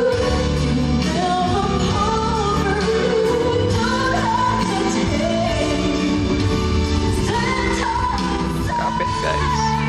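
Female pop vocalist singing a ballad over a full band accompaniment, ending on a long held note.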